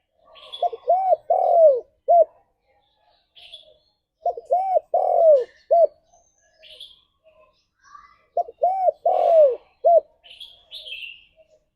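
Spotted dove cooing: three repeated phrases about four seconds apart, each a few short coos around one longer, drawn-out note, with faint high chirps between them.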